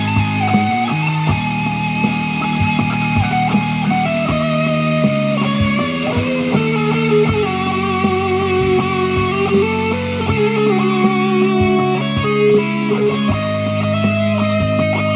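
Electric guitar improvising a slow melody of held, sliding notes over sustained bass notes and a steady beat.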